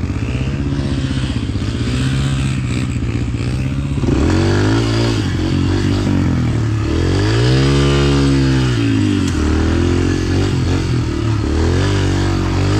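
Dirt bike engine revving, its pitch swinging up and down with the throttle. It gets louder about four seconds in, with the biggest rise and fall a little past the middle.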